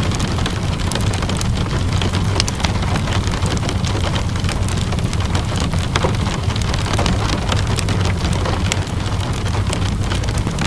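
Ambience mix of steady rainfall and a crackling wood fire: a constant hiss of rain over a low rumble, with frequent small sharp crackles.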